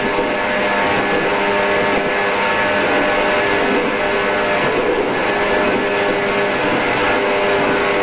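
JR East 113 series electric train heard from on board, running at a steady speed: the steady hum and whine of its MT54 traction motors and gears over continuous wheel and track rumble, holding one pitch throughout.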